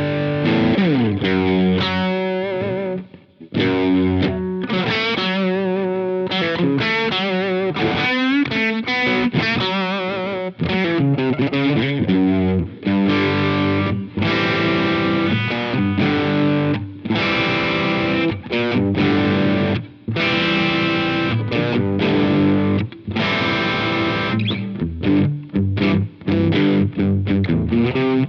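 Electric guitar played through a Jeds Peds AndyChad overdrive pedal, a Nobels ODR-1-style drive, with driven chords and single-note phrases with wavering, bent notes. Brief gaps fall between phrases.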